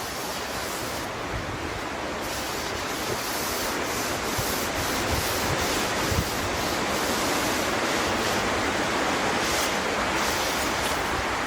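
Brush rubbing oil into European larch planks: a steady scratchy hiss of bristles dragging over the wood grain.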